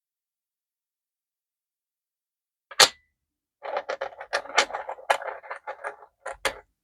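Silence, then about three seconds in a single sharp click, followed by a quick irregular run of small light clicks and taps and two more clicks near the end: small objects being handled on a desk.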